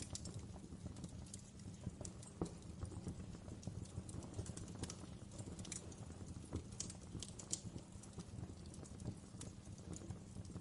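Wood fire burning in a fireplace, with a steady low rumble of flames and frequent irregular crackles and pops.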